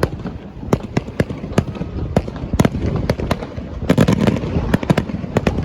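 Fireworks display: a rapid, irregular string of sharp bangs from aerial shells going off, thickest about four seconds in, over a low rumble.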